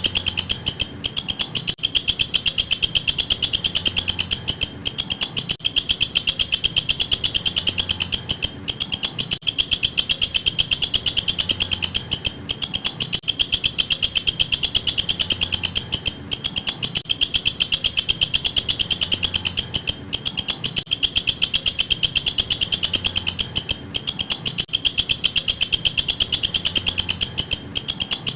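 Walang kecek katydid stridulating: a continuous fast train of high, rasping pulses, broken by a short pause about every four seconds.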